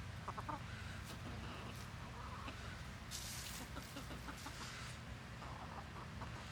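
Chickens clucking, short scattered clucks from a flock over a steady low hum, with a few brief rustles.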